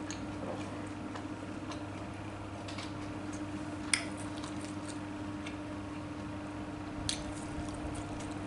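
A person eating: quiet mouth and utensil sounds, with two sharp clicks about four and seven seconds in, over a steady low hum.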